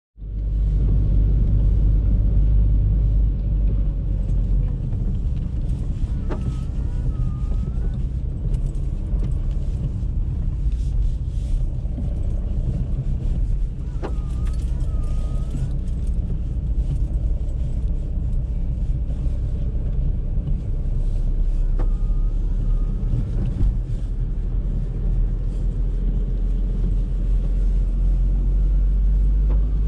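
Steady low road-and-engine rumble inside the cabin of a moving Audi A3. Three times, about eight seconds apart, a click is followed by a short wavering squeak.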